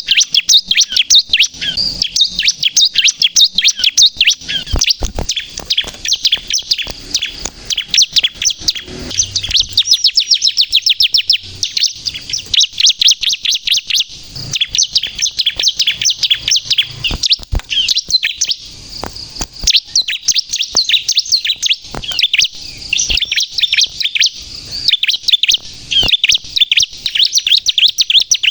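Bar-winged prinia (ciblek) singing at full tilt: a loud, continuous run of rapid, high-pitched chirps and trills with only brief breaks.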